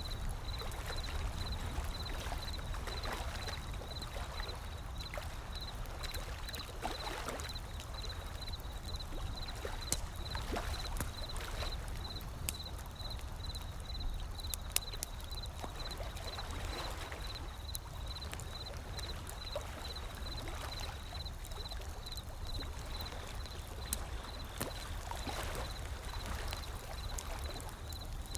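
Ocean waves washing in over a steady low rumble, swelling every few seconds, with the scattered sharp pops and crackles of a wood fire. A faint high-pitched tone pulses about twice a second throughout.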